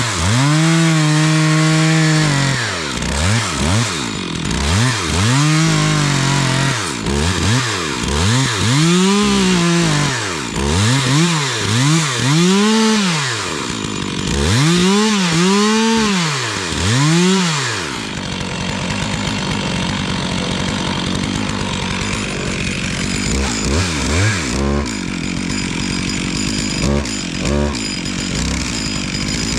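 A Stihl chainsaw is revved up and down over and over for the first half, its pitch rising and falling with each throttle squeeze. It then settles to a lower, steadier run, with a few short revs near the end.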